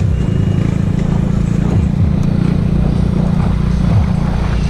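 Motorcycle engine running steadily, with a few short dips in pitch.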